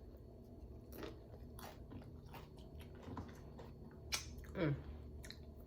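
Close-miked chewing with crisp crunches of tortilla chips, the loudest crunch about four seconds in, followed by a short vocal sound that falls in pitch.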